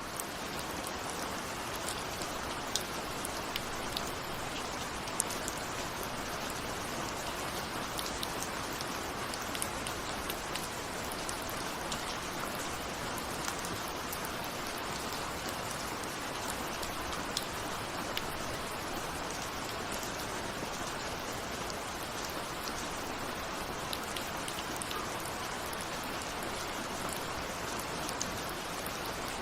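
Steady rain with scattered individual raindrops ticking on a window.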